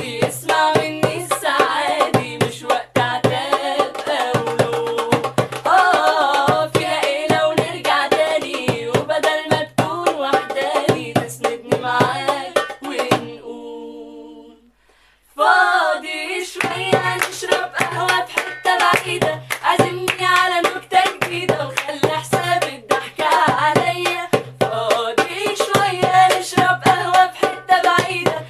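Women singing a song over a steady beat with sharp hand-struck percussion. About thirteen seconds in, the singing and beat stop, a held note fades away, and after a short gap the song starts again.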